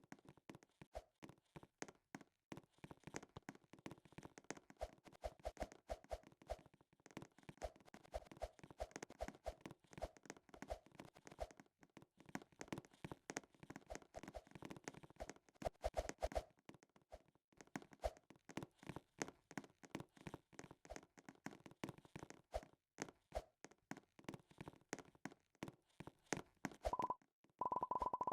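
A dense, irregular run of short clicks and taps.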